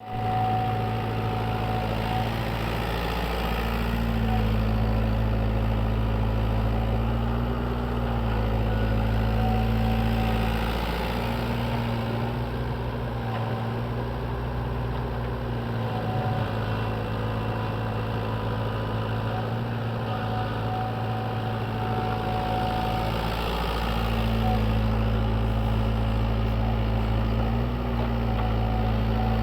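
SANY mini excavator's diesel engine running while it digs, a steady low hum that swells and eases every few seconds.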